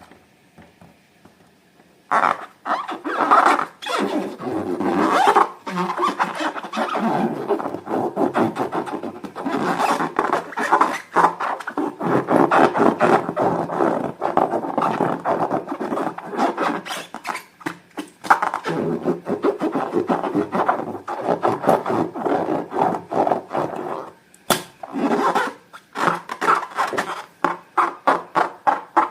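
Slime being squeezed and kneaded by hand: a dense, uneven run of wet, sticky clicks and squelches that starts after about two seconds of quiet, with a short break about five seconds before the end.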